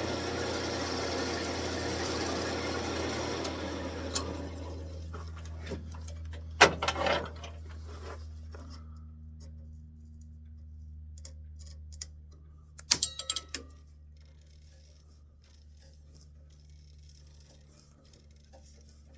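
Wood lathe running, with a gouge cutting the spinning wood for the first few seconds. After that only the lathe's steady motor hum is left, gradually fading, with a few sharp knocks and a quick rattle of clicks about two-thirds of the way through.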